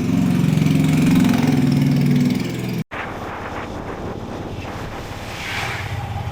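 An engine running steadily, then a sudden break about halfway through, after which a quieter engine hum with rushing noise continues.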